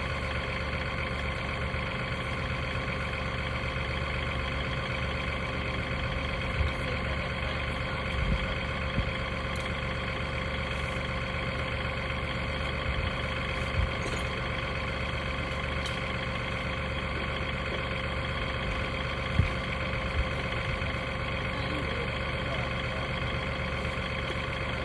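Portable sawmill's engine running steadily, with a few brief knocks scattered through.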